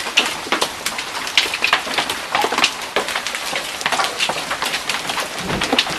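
Large hailstones, golf-ball sized, pelting down in a storm: a dense, irregular clatter of sharp impacts over the hiss of falling rain, with a heavier thud about five and a half seconds in.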